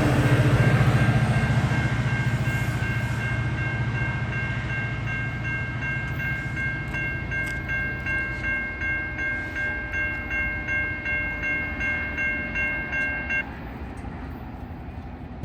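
A GO Transit train rumbling away past a level crossing, fading steadily, while the crossing's warning bells ring in a steady repeating pattern. The bells stop about two seconds before the end, as the crossing clears.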